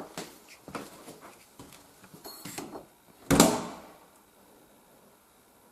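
Small knocks and clatter of a cabinet being handled, then one louder bang about three seconds in with a short echo in a bare room.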